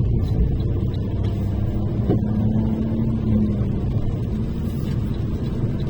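Steady low rumble of a car driving, engine and tyre noise heard from inside the cabin, with a faint steady tone for a second or so in the middle.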